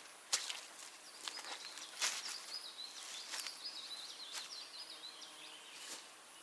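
A small songbird singing one long, high, twittering phrase, with scattered crackles and snaps around it, like steps on twigs and forest litter.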